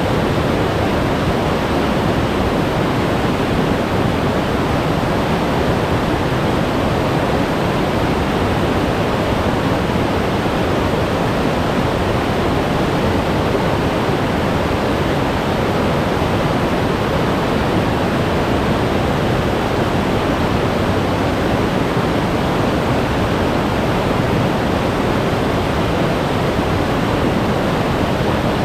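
Glacier-fed mountain stream rushing over rocks: a loud, steady roar of meltwater.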